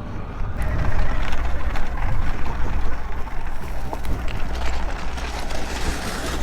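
Riding noise from a Sur Ron electric dirt bike on rough ground: wind rushing over the chin-mounted camera mic, with a low rumble and scattered rattling clicks from the tyres and chassis. It gets louder about half a second in as the bike picks up speed.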